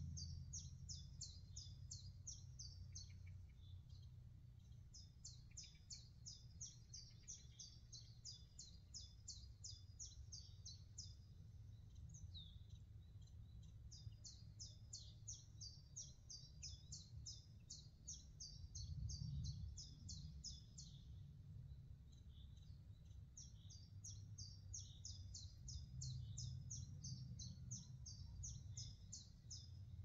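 A songbird singing faintly: long runs of quick, high notes, repeated several times with pauses of a second or two between runs, over a steady low rumble.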